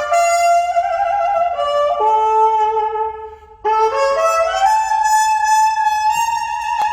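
Trumpet playing a slow melody of held notes, with a short break about three seconds in, then a long held note that slides upward near the end.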